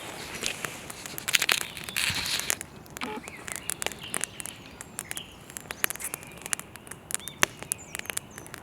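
Dry twigs and brush crunching and crackling, with a louder patch of crunching about a second and a half in. A bird chirps briefly a few times.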